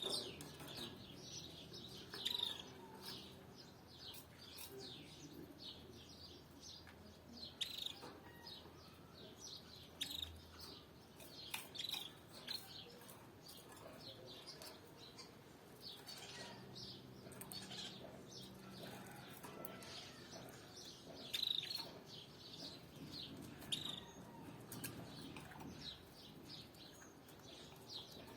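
Canaries chirping: many short, quick chirps in a steady scatter, a few louder ones standing out now and then.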